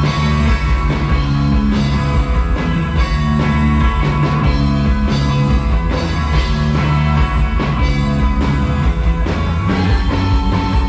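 Live rock band playing an instrumental passage: distorted guitar chords over bass and a drum kit with a steady beat.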